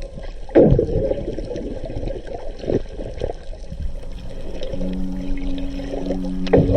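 Sea water sloshing and splashing, with a sharp splash about half a second in and another near the end.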